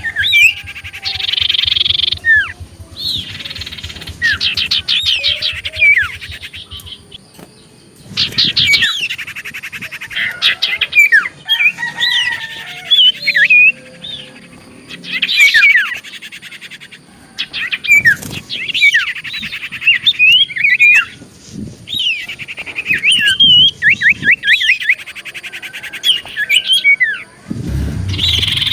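Common iora singing loudly in repeated bursts of rapid chattering trills and sharp down-slurred whistles, with short pauses between phrases.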